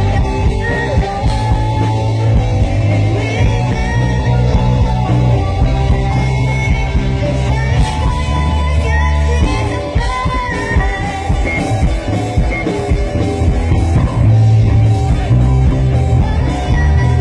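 A live rock band playing with a singer: electric guitar, bass and drums.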